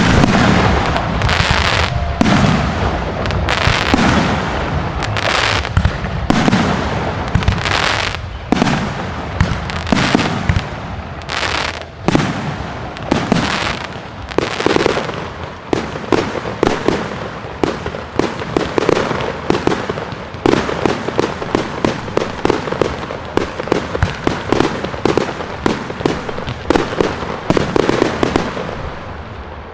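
Aerial fireworks display: shells bursting in a string of loud bangs, each trailing off in an echo. The bursts crowd together into a rapid, crackling barrage over the second half, then die away near the end.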